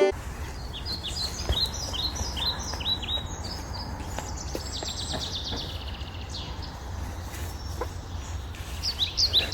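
Small birds singing: a run of short, repeated falling chirps, a rapid falling trill about four seconds in, then more chirps near the end, over a steady low rumble.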